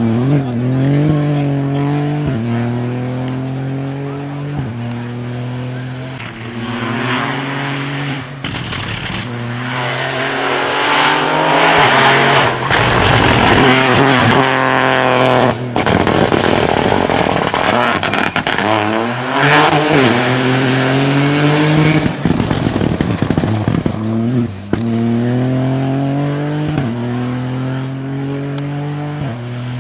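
Rally car engine at full throttle, its pitch climbing and then dropping again and again as it shifts through the gears. It is loudest for several seconds in the middle as the car passes close, then the stepped climbing and shifting is heard again near the end.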